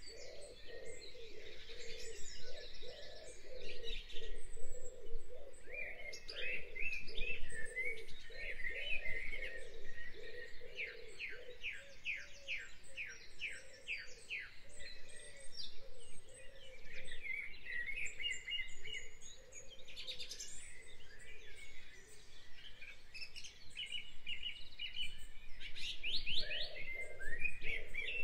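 Birds singing: many overlapping high chirps and trills, including a run of quick, evenly repeated notes partway through, over a lower repeated call.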